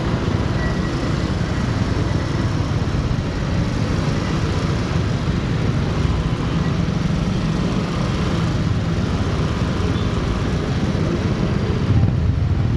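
Steady rumble of a motorcycle on the move: engine and wind noise on the microphone, with no clear change in pace.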